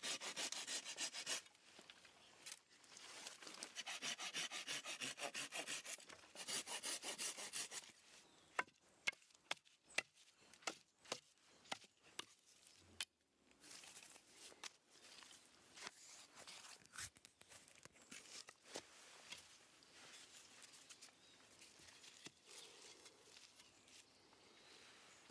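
Wood being worked by hand with rapid back-and-forth strokes, in three runs over the first several seconds, followed by a string of sharp taps and clicks and then quieter, intermittent scraping.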